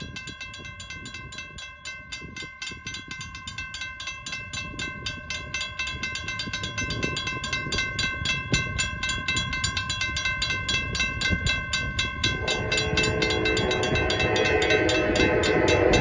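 Grade-crossing warning bells ringing in a steady, rapid rhythm while an approaching freight train's rumble grows louder. About twelve seconds in, the Norfolk Southern locomotive's horn comes in over the bells and gets louder toward the end.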